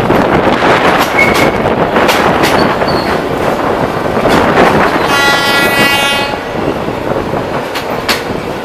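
Local passenger train running on the rails, its wheels clattering over the rail joints with sharp clicks, and a train horn sounding one steady blast of about a second, some five seconds in.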